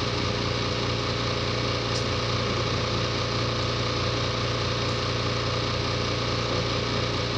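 A steady machine hum with a constant low drone that does not change.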